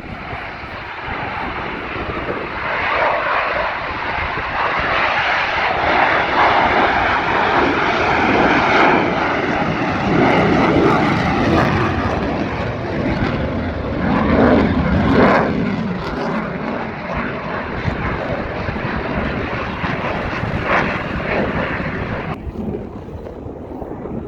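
Airplane engine noise from an aircraft flying overhead. It swells over the first few seconds, stays loud through the middle with shifting pitch, then eases. The upper range drops away suddenly near the end.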